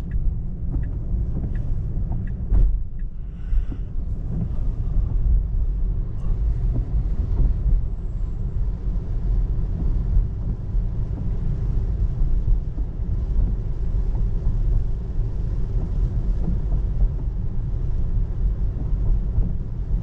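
Steady low road and tyre rumble inside the cabin of a 2024 Tesla Model 3 electric car driving in the rain, with no engine note. A few light, evenly spaced ticks come in the first few seconds.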